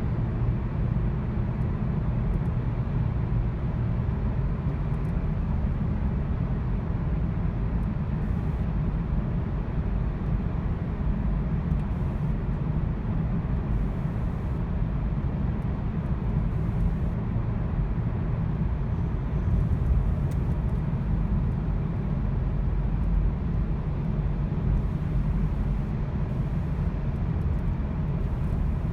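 Volkswagen car driving with an engine misfire: a steady low rumble of engine and road noise.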